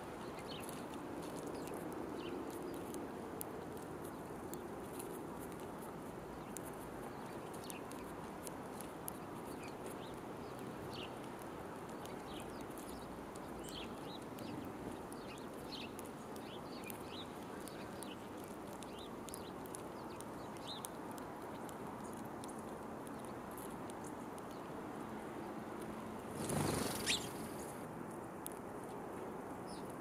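Small wild birds chirping in short, scattered calls over steady outdoor background noise, with a brief loud rushing noise near the end.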